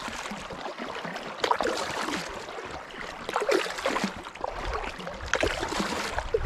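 Kayak paddle strokes splashing, with water trickling and lapping around the boat and irregular louder splashes every second or two.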